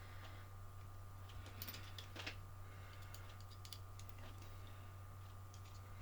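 Faint, irregular small clicks and taps of hand tools and small metal parts being handled on a workbench, over a steady low hum.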